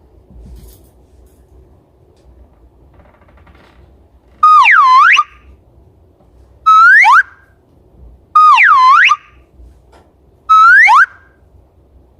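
Four loud whistle-like sound-effect sweeps, each under a second: a tone that dips and then swoops upward alternates with a short quick upward glide, twice over.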